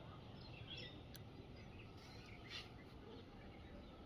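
Near silence, with faint scattered bird chirps in the background.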